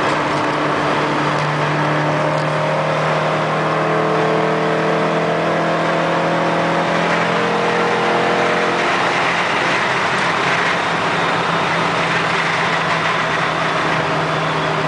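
Opel Kadett GSi's C20XE two-litre 16-valve four-cylinder engine pulling hard at high speed in a tall gear, its pitch climbing slowly. From about nine seconds in the engine note fades under a steady rush of wind and road noise.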